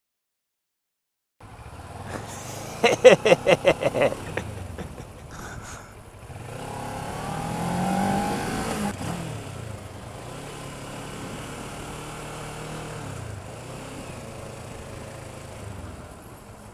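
Road traffic heard from a motorcycle: a quick run of loud, evenly spaced pitched pulses about three seconds in, then a vehicle engine rising and falling in pitch as it speeds up and passes, over steady engine and traffic noise.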